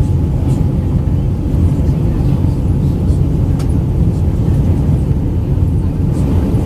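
Steady low rumble inside the cabin of an Airbus A319-112 in descent: its CFM56 engines and airflow over the fuselage, with faint steady tones above the rumble. A single faint click about three and a half seconds in.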